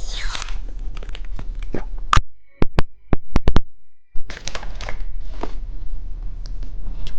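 Plastic wrapper of a hamburger-shaped candy being torn open and crinkled, with a run of sharp clicks about midway.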